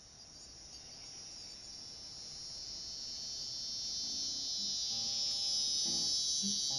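Cicada chorus, a high steady buzzing drone fading in and growing steadily louder. Acoustic guitar notes come in about four seconds in.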